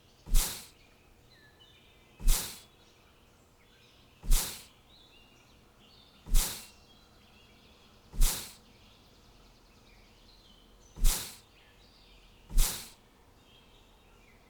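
Faint birdsong chirping in the background, with a loud, sharp noisy burst seven times, roughly every two seconds, each fading away within half a second.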